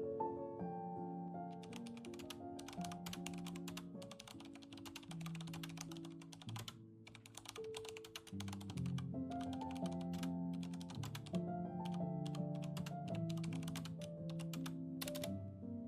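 Typing on a computer keyboard: quick runs of key clicks with a brief pause about halfway, over soft background music.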